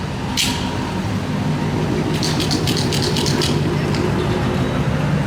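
Car engine running steadily, with a short run of light clicks or rattles around the middle.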